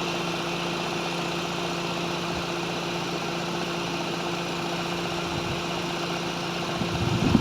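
Car engine idling steadily, an even hum with no change in speed.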